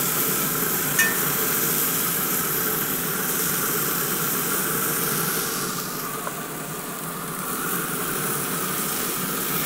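Tomato and onion chunks sizzling steadily in olive oil in a cast iron skillet as a fork stirs them, with a sharp metal click of the fork against the skillet about a second in.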